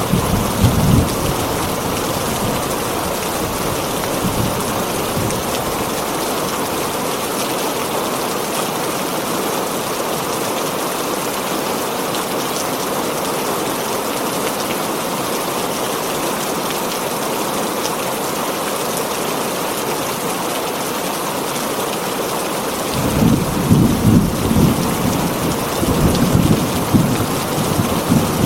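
Heavy rain pattering steadily on a tin roof, with thunder rumbling in the first second and again through the last few seconds.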